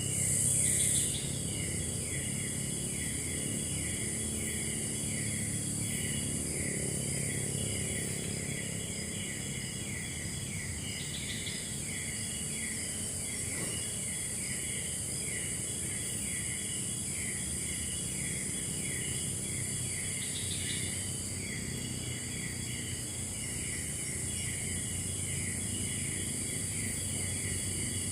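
Forest insect chorus: a steady high buzz with a repeating chirp a little under twice a second, over a low background rumble.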